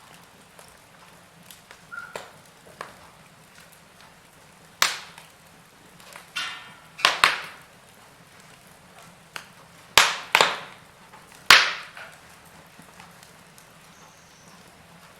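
Wood fire in a fireplace crackling over a faint steady hiss. Burning logs give a handful of loud, sharp pops in the middle of the stretch, the biggest about ten and eleven and a half seconds in.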